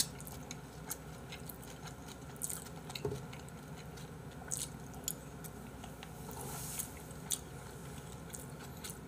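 A person chewing a mouthful of fried rice, with a few light clicks of a metal spoon against a stainless steel bowl.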